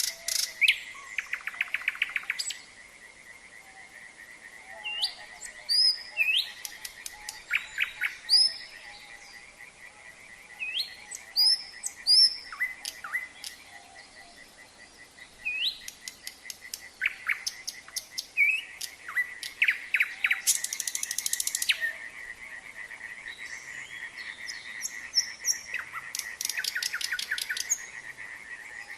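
Nightingale singing in separate phrases of sharp whistles, rapid trills and buzzes, over a steady chorus of frogs calling in fast pulses.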